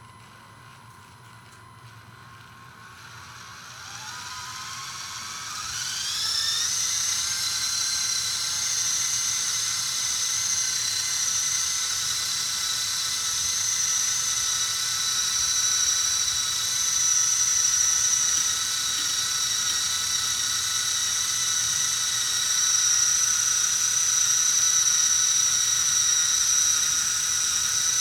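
Axial SCX24 micro crawler's small electric motor and gear train whining under load while pulling a 12 lb dead-weight sled. The whine rises in pitch over a few seconds near the start, then holds steady and high for the rest of the pull.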